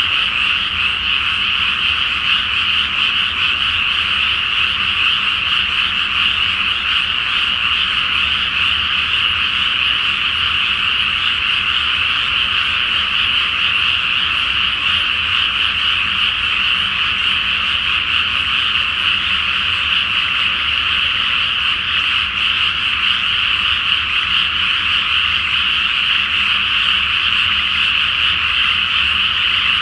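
A dense chorus of many frogs calling together from a flooded rice paddy, as a steady, unbroken wall of overlapping croaks with no pauses.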